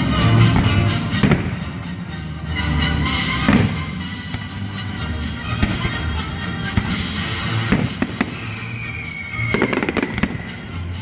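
Aerial fireworks display bursting one after another: repeated deep booms and sharp cracks with crackling.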